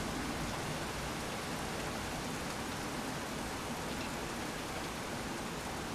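Steady rain from a thunderstorm, falling as an even, continuous hiss with no thunder heard.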